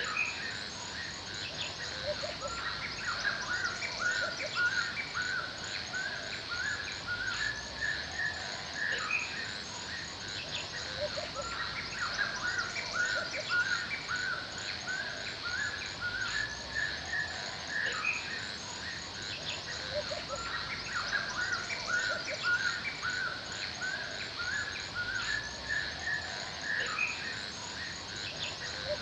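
Forest ambience: many birds chirping and calling continuously over a steady high insect buzz, with a lower call recurring about every nine seconds.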